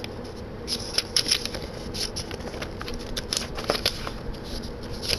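Handling noise from fumbling with a camcorder and its packaging: irregular small clicks, scrapes and rustles.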